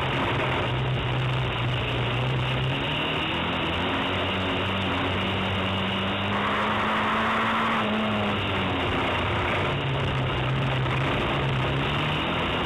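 Autocross car's engine heard from inside the cabin, running hard with its pitch climbing slowly over several seconds, dropping about two-thirds of the way through, then rising again. A steady rushing noise runs underneath.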